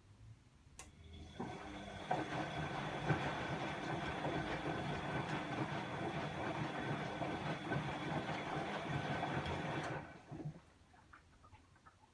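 Bosch WAE24162GB03 washing machine mid-rinse: a click, then the motor turns the drum for about eight seconds with a steady whine and stops suddenly, the pause of a normal tumble.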